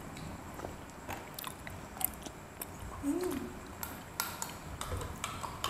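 Chewing and wet mouth clicks of people eating, picked up close by a clip-on microphone, with scattered small clicks and taps of utensils.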